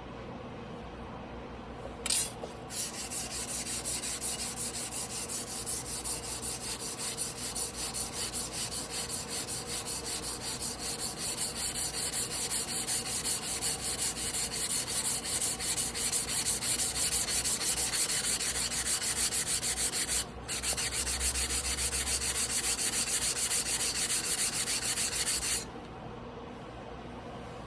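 Tojiro Damascus blue-steel yanagiba blade stroked by hand back and forth on a whetstone: a fast, even, rhythmic scraping. It starts about two seconds in, breaks off for a moment near the end, and stops a couple of seconds before the end.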